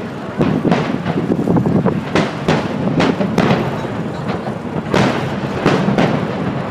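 Aerial fireworks shells bursting in quick succession: roughly ten booms, each trailing off into a rumble.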